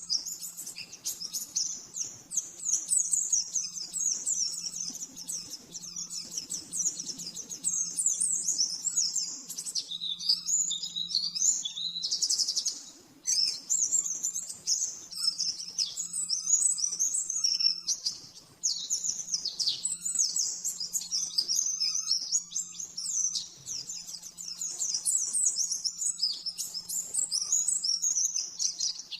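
White-eye (pleci) singing a fast, continuous stream of high twittering and chattering phrases, broken only by two brief pauses about a third and two thirds of the way in. This is the rapid 'nembak' style of song used as a tutor recording for training cage birds.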